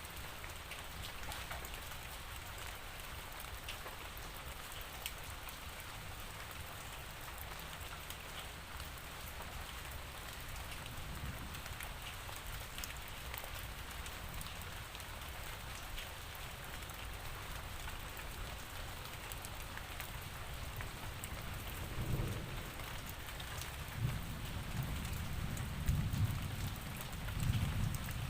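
Steady rain falling, a dense hiss of fine drop ticks. In the last few seconds low rolls of thunder rumble in several swells under the rain.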